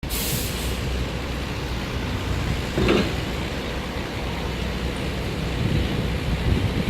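New York City subway train on the 6 line running with a steady low rumble, with one short knock just before three seconds in.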